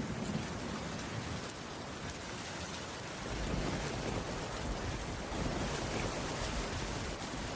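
Steady rain falling on a wooden roof, a dense even hiss. A low rumble of distant thunder underneath eases early on and builds again about three seconds in.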